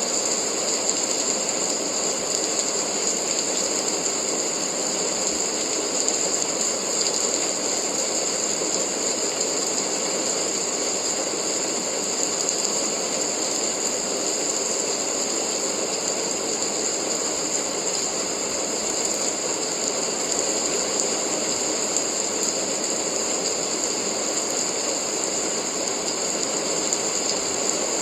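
Steady rain, a constant dense hiss and patter with no let-up.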